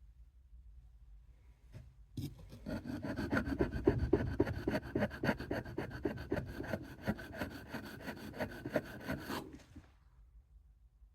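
Steel knife blade rubbed back and forth on an axe-sharpening puck stone in quick, even strokes, grinding down a rounded tip. The strokes start about two seconds in and stop a couple of seconds before the end.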